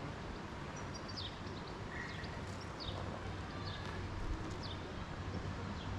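Birds calling in short, quick falling chirps, repeated several times over a steady low background rumble.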